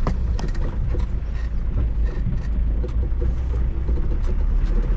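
Land Rover Defender driving off-road, heard from inside the cabin: a steady low engine and drivetrain rumble with frequent short knocks and rattles from the body.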